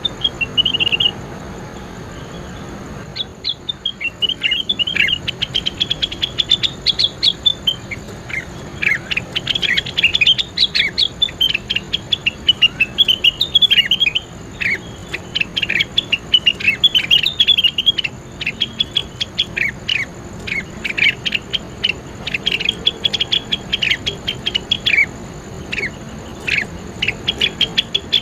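A songbird singing a long, fast string of sharp chirps and short downward-sweeping notes. The song starts with a brief phrase, pauses for about two seconds, then runs on without a break.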